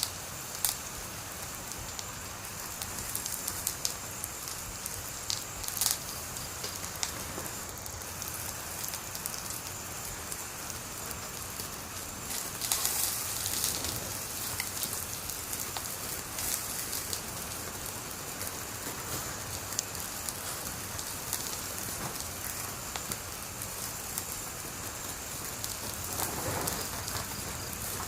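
Wood fire burning with a steady hiss and frequent sharp crackles and pops, busiest for a couple of seconds near the middle.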